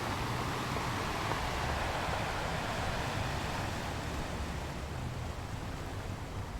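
Sea waves washing in, a steady rushing noise that swells in the first few seconds and then eases off.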